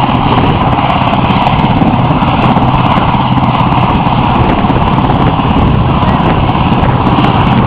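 RAF Westland Sea King helicopter hovering: its main rotor and twin turboshaft engines make a loud, steady, pulsing drone.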